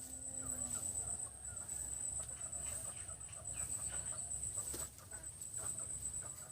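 Young Aseel chickens clucking and peeping in short, scattered calls, over a steady high-pitched whine.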